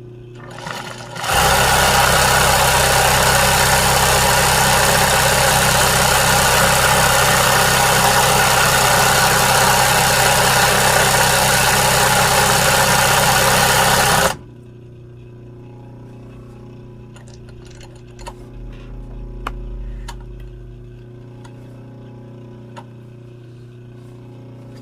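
A motor-driven machine runs loudly and steadily for about thirteen seconds, starting and stopping abruptly; a few faint ticks follow.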